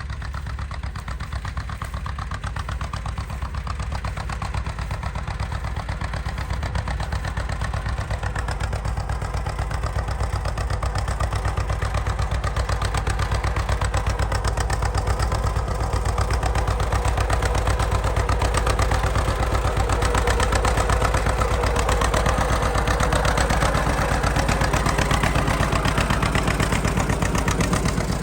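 An engine running steadily, growing gradually louder over the first half and then holding.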